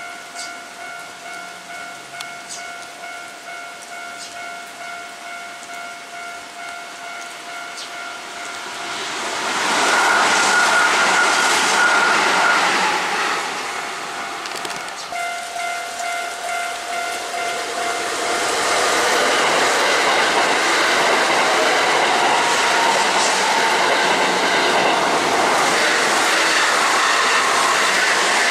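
Electric trains passing at speed, twice: a short pass about a third of the way in and a longer one through the second half, the last a Kintetsu Vista Car limited express, its wheels clattering over the rail joints. Between the passes a steady ringing tone sounds in even beats.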